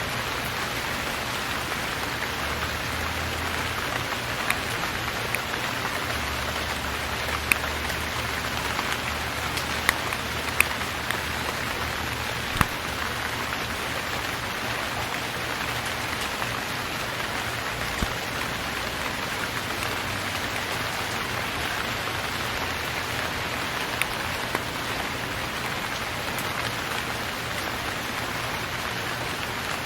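Steady rain falling, with the sharp clicks of single drops landing close by every second or two.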